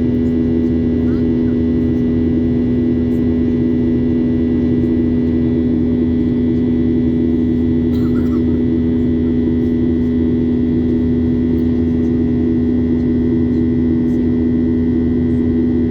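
Steady cabin drone of a Boeing 737-800 in flight, its CFM56 jet engines and airflow heard from inside the cabin as an even hum with a strong low tone and a few faint higher whines.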